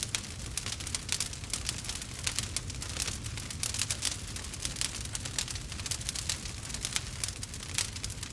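Log fire crackling steadily, with many quick pops and snaps over a low rumble.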